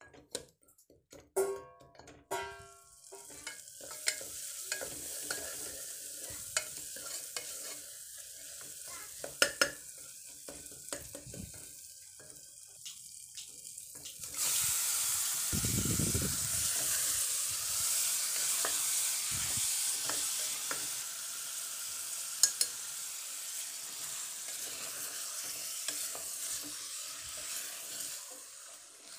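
Curry masala sizzling in an aluminium pressure cooker while a wooden spatula stirs and scrapes it, with scattered light clicks. About halfway through, raw beef pieces are tipped in and the sizzling jumps louder, with a brief low thud, then the meat is stirred through the frying masala.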